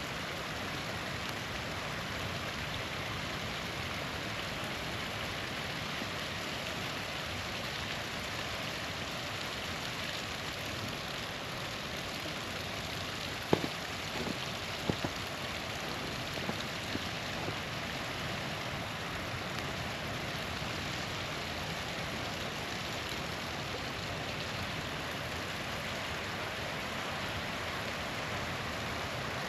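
Small waterfall rushing in a steady, even hiss, with a few sharp campfire crackles and pops about halfway through.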